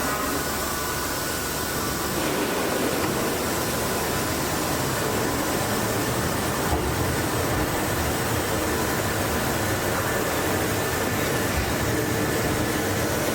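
Steady running noise of a train heard from inside the car: an even hiss with a low rumble underneath.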